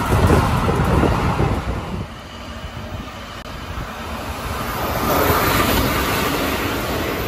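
Keikyu electric trains passing through a station: the tail of a train on the near track rumbles by and fades away about two seconds in. Then another train's wheel and rail noise grows louder from about four seconds in as it runs past on the far track.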